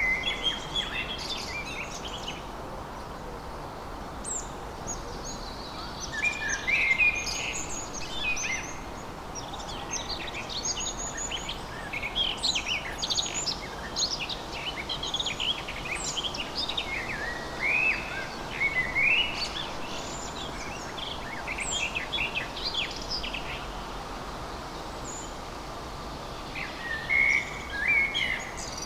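Several songbirds chirping and singing in clusters of quick, rising and falling notes, over a steady background hiss.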